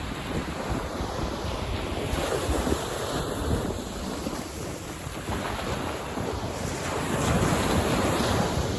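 Sea waves washing onto a beach, the surf surging twice, loudest near the end, with wind buffeting the microphone.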